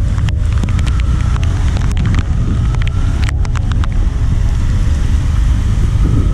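Wind rushing over the microphone on the move through traffic, over a steady low rumble of engine and road noise, with a few sharp clicks.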